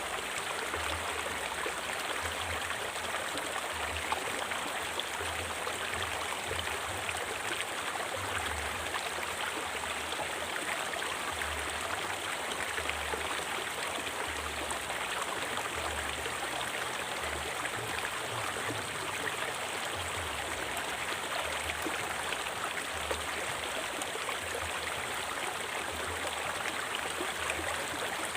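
A river or stream flowing steadily over rocks: an even rush of water with no pauses.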